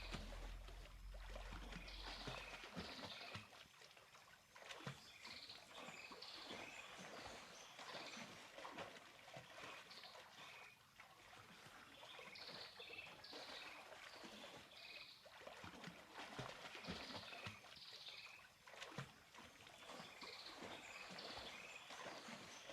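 Faint water splashing and trickling, with many small irregular splashes.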